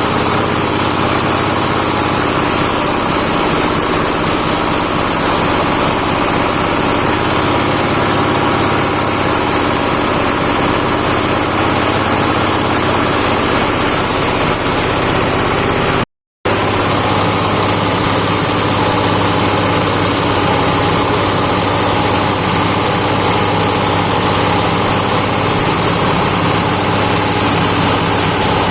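Fish-waste grinding machine running steadily, its motor holding a constant drone with a hum of steady tones. The sound breaks off for a split second about halfway through, then picks up again unchanged.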